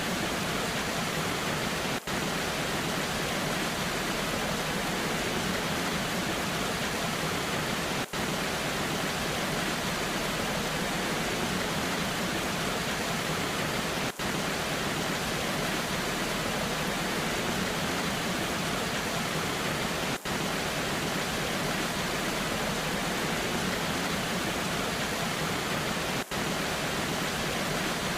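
Steady rush of a waterfall in the rain, an even hiss with no rhythm or pitch, broken by five very brief dips in level about six seconds apart.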